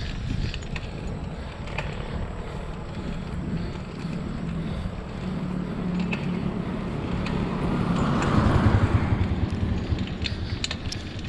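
Wind rushing over an action camera's microphone and tyre noise from a bicycle on the road, with scattered small clicks and rattles. The rush swells louder about eight seconds in.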